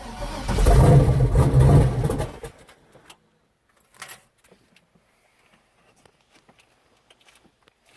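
The 6.0-litre V8 in a Chevrolet S10, first start attempt: the engine turns over with a loud, pulsing rumble for about two and a half seconds, then stops. A few faint clicks and a short knock follow.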